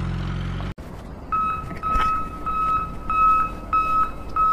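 A low, steady hum cuts off suddenly under a second in. About half a second later an electronic alarm starts beeping: one high tone, about two beeps a second, evenly spaced.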